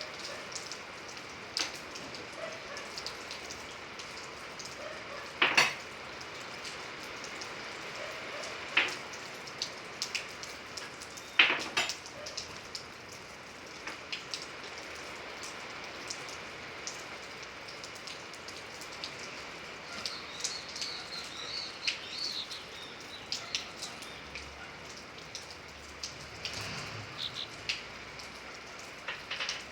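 Steady rain with now and then a louder single drop hitting a hard surface as a sharp tap.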